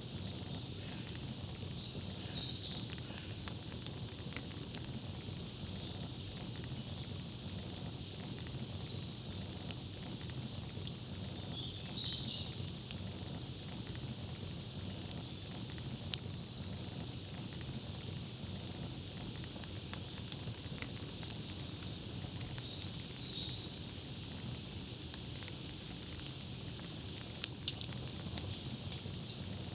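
Campfire crackling, with sharp pops scattered over a steady hiss. A bird chirps briefly three times.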